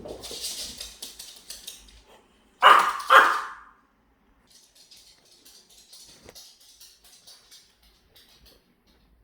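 A Maltese dog barks twice in quick succession about three seconds in. Softer scratchy rustling comes before and after the barks.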